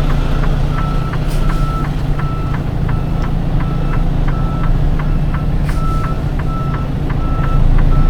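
Reversing alarm beeping in an even, repeated rhythm over the low steady running of a semi truck's diesel engine as the tractor-trailer backs up.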